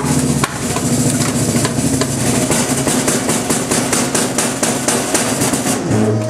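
Trash compactor crushing a microwave oven: its engine and hydraulics run under load while the microwave's casing and parts crack and crunch in a rapid run of snaps. The crunching stops near the end, leaving a steady mechanical hum.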